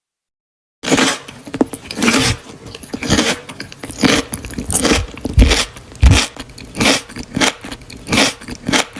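Close-miked eating sounds: repeated bites and chews, roughly two a second, starting about a second in, with two heavier low thuds in the middle.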